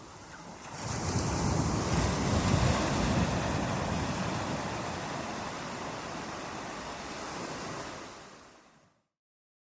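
Ocean wave breaking and washing up the shore, a surge of surf that swells about a second in and slowly subsides, then fades out to complete silence near the end.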